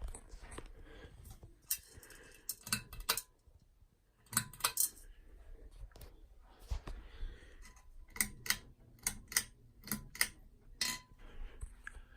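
Sharp metallic clicks of a ceiling fan's pull-chain switch and chain, in short groups, with a run of about eight evenly spaced clicks near the end.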